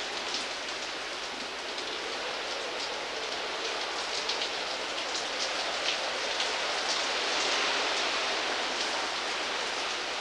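Hurricane-force wind and driving rain: a steady rushing hiss with short gusty surges, growing slightly louder in the second half.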